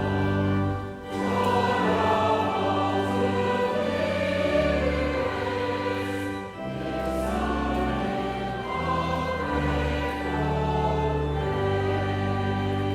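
A choir singing a hymn over sustained chordal accompaniment with long held bass notes, pausing briefly between phrases about a second in and again past the middle.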